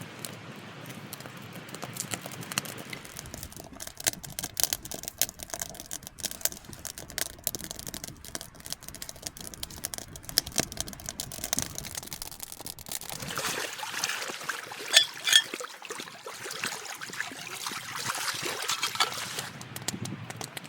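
Liquid pouring and trickling, with many small clicks and crackles; the clicks grow sharper and denser from about two-thirds of the way through.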